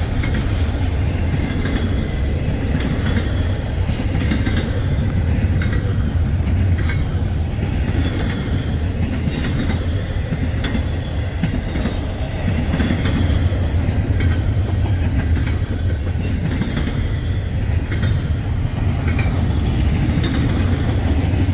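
Freight train cars rolling past at speed: a steady, heavy rumble with wheels clicking over rail joints and a few brief high squeals from the wheels.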